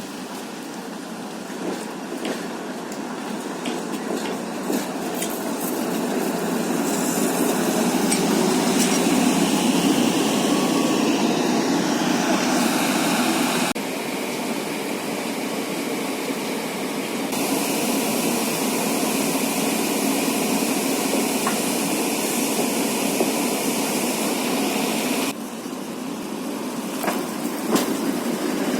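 Worn-out old trams running on badly maintained track: a steady rumbling ride noise with rattles and knocks. The sound changes abruptly three times.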